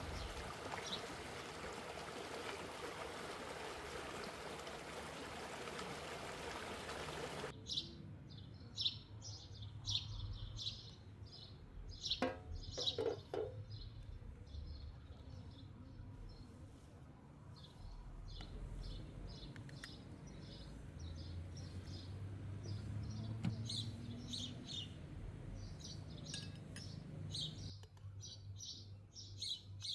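Small songbirds chirping repeatedly in quick short notes. For the first several seconds they sit under a steady rushing noise, like flowing water, which cuts off abruptly.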